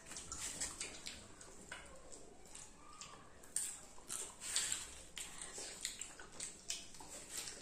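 Children chewing and smacking their lips, a quick irregular run of wet clicks and crunches from eating popcorn and juicy pineapple, with a few louder smacks about halfway through.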